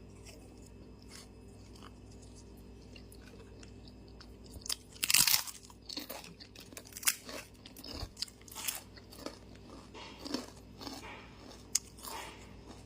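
A person eating close to the microphone: after a quiet start, a loud crunchy bite about five seconds in, then chewing with repeated crunches.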